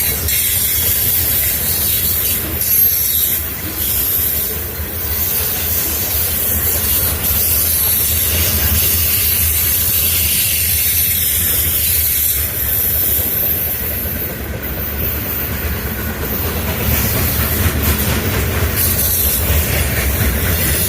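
Freight train rolling past: a steady rumble of wheels on the rails with a hiss and scattered clicks.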